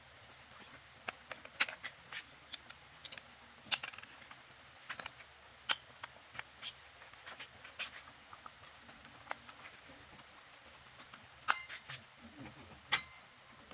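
Irregular light clicks and taps of small tools and metal parts being handled during repair work, a few sharper knocks among them, over a faint steady high-pitched hiss.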